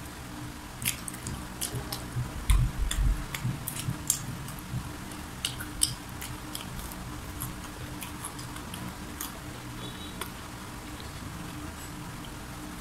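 Close-miked eating of crispy fried chicken: chewing with scattered sharp crunches and mouth clicks, and a few dull low thumps about two and a half seconds in, over a faint steady low hum.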